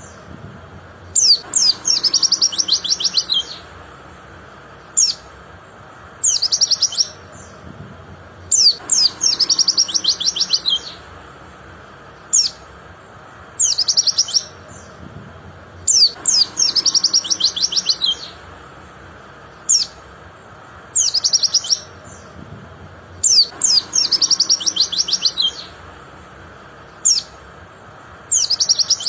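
White-eye (pleci) singing: phrases that open with sharp high chirps and run into rapid twittering trills lasting one to two seconds, repeating every few seconds with single short chirps in between.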